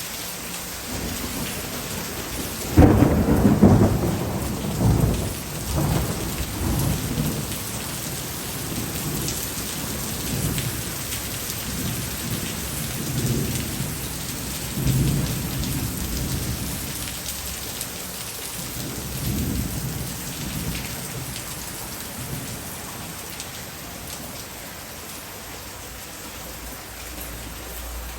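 Heavy rain pouring steadily. A sudden thunderclap breaks out about three seconds in, then rolls on in deep rumbles that swell and fade.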